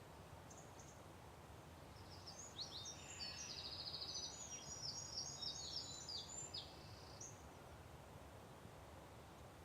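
A small songbird singing a varied, quick phrase of high chirps and trills for about five seconds, starting about two seconds in, with one short chirp before it, over a faint steady background hum.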